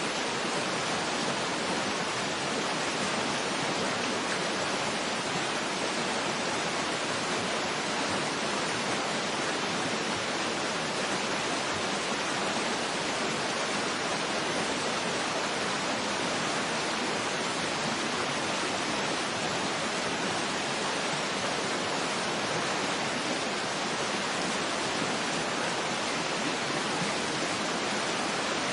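Waterfall ambience: a steady, even rush of falling water with no breaks or changes.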